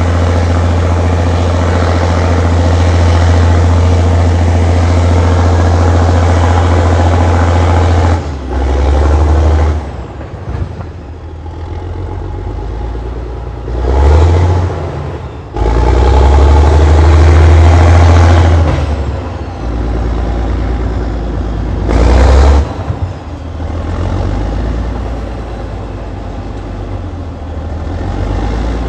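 Allis-Chalmers HD21 crawler dozer's diesel engine working hard under load, loud and steady for about eight seconds. It then drops back and surges again several times, longest about halfway through, as the dozer pushes dirt.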